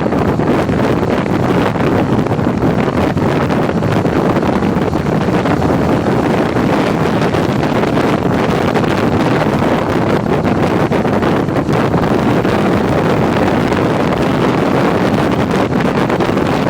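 Steady wind rush buffeting the microphone of a touring motorcycle on the move, with engine and road noise blended underneath.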